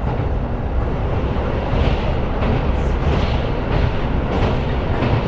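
KiHa 125 diesel railcar running, heard inside the passenger cabin: a steady rumble of the engine and wheels on rail.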